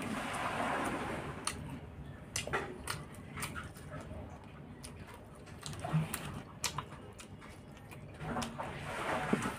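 Close-up eating sounds: a person chewing food taken by hand, with wet mouth and lip-smacking noises and many short clicks throughout. Noisier stretches of chewing come at the start and again near the end.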